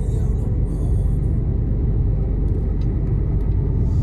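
Mercedes-Benz Actros truck driving, a steady low engine and road rumble with a few faint ticks in the middle.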